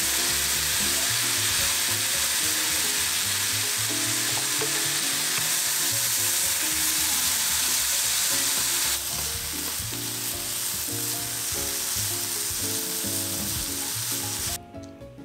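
Sweet potato and carrot kinpira stir-frying in oil in a pan, a steady dense sizzle. The sizzle drops a step about nine seconds in and stops abruptly just before the end, leaving background music.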